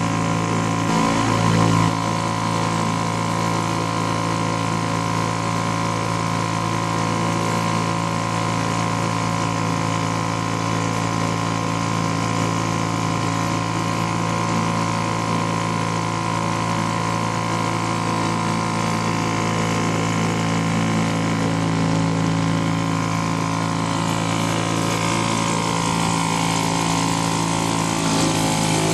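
British Seagull two-stroke outboard motor running steadily at a constant speed, with a slight change in its note near the end.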